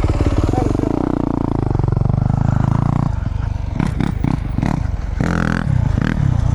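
Dirt bike engine running close to the microphone, its pitch dipping and then rising again, before it drops off about three seconds in to irregular knocks and clatter.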